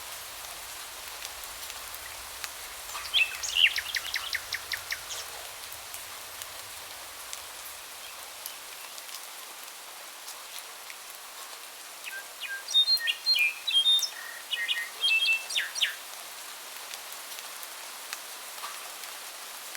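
Songbirds calling over a steady hiss of rain: a quick run of about eight short repeated notes a few seconds in, then a burst of sharp chirps in the second half.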